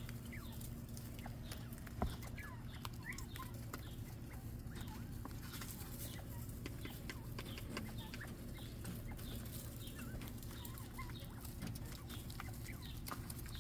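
A flock of small quail calling softly, with many short scattered chirps and peeps over a steady low hum. There is a single sharp knock about two seconds in.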